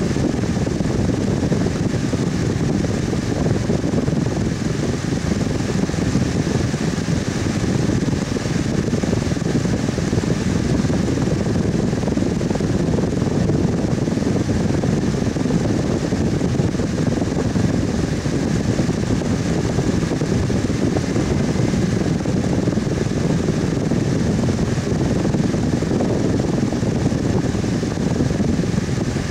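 A fan running steadily: an even, unchanging whoosh of moving air, heaviest in the low range.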